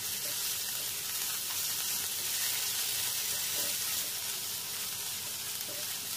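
Minced garlic, ginger, chillies and coriander leaves sizzling in hot oil in a nonstick kadai over high flame as they are stirred with a silicone spatula: a steady, high hiss.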